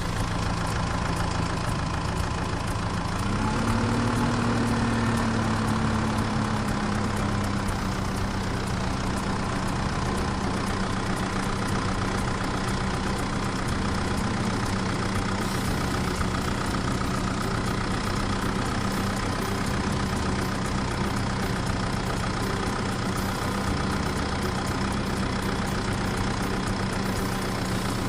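Truck engine running steadily at idle, with a brief rise in pitch about three seconds in.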